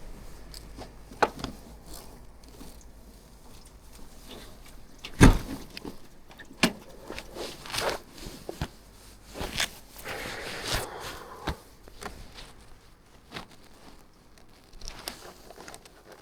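Footsteps and handling noises: scattered clicks and knocks, a loud thump about five seconds in, and rustling around ten seconds in.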